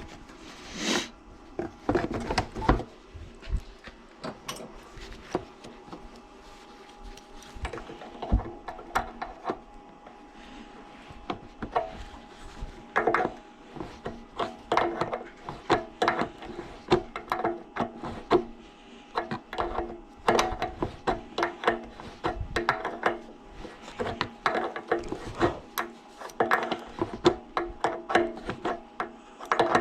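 Irregular clicks, knocks and rubbing of hand tools against the parts of an air compressor being taken apart or worked on, some in quick clusters, over a faint steady hum.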